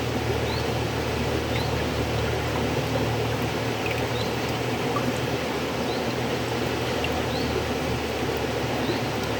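River water flowing steadily, an even, continuous rush with no pauses.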